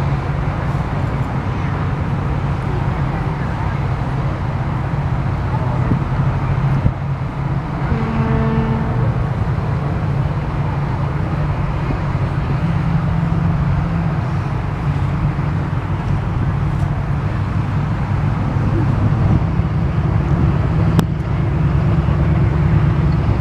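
Steady low engine rumble, with a short horn note sounding for about a second roughly eight seconds in.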